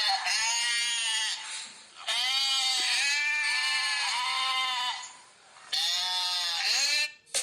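Sheep bleating: a series of long, quavering bleats with short breaks between them.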